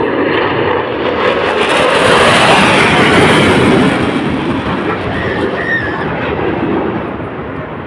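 Fighter jet passing low overhead, a loud rushing roar that builds to its peak a couple of seconds in and then slowly fades as it moves away.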